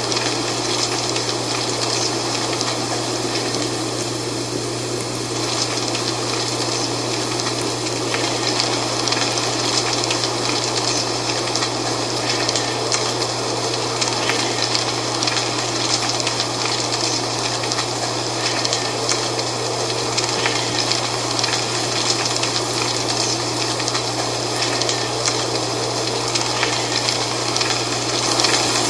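Dry fall leaves rustling in the wind: a steady rush full of small crackles, with a steady low hum underneath.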